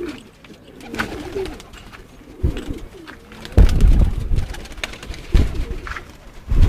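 Domestic pigeons cooing in a low, wavering burble. Several loud low thumps break in, the heaviest cluster about three and a half seconds in.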